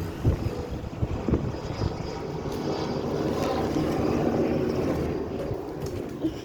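Helicopter flying, a steady rotor and engine noise that grows louder in the middle and fades a little near the end.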